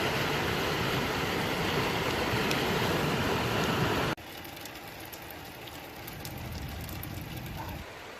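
Steady rain falling, loud for about four seconds, then cutting abruptly to a quieter steady patter with scattered drip ticks.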